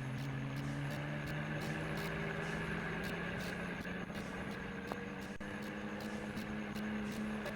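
John Deere tractor engine running steadily while it pulls two loaded trolleys, a low, even engine hum.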